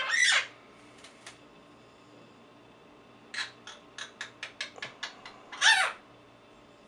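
Quaker parrot (monk parakeet) making two loud squawks that drop sharply in pitch, one at the start and a louder one near the end, with a quick run of about ten short clicks between them.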